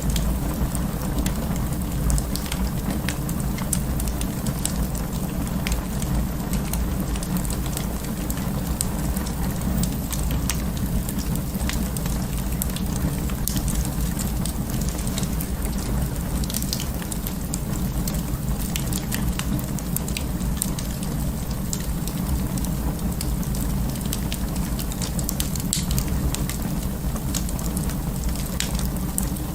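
Wood fire in an open fireplace crackling, with a steady low rumble of the flames and many irregular sharp pops and snaps.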